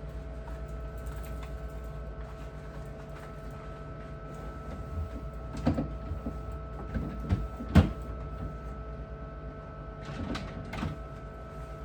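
A few knocks and clunks of hard objects being handled and set down, the loudest about two thirds of the way in and two more near the end, over a steady electrical hum.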